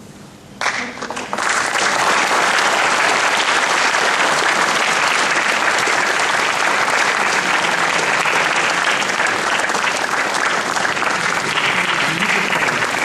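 Audience applauding, a dense steady clapping that swells up about a second in and keeps going.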